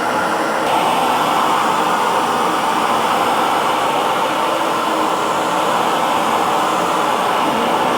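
Electric hair dryer running steadily, an even rush of blown air. Its tone shifts slightly just under a second in, then holds steady.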